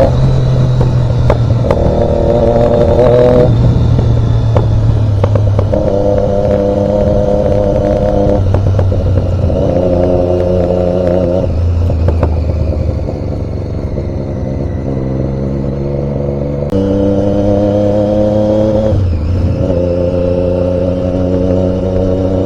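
Motor vehicle engine running on the move, a loud drone that holds a pitch for a few seconds, breaks, and comes back at a different pitch, over a steady road rumble.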